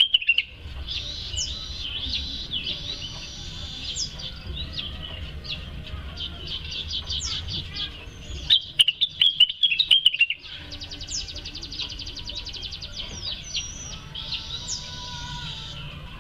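Cucak wilis songbird singing without pause in a string of quick chirps and whistled phrases. A louder burst of calls comes about nine to ten seconds in, followed by a fast trill.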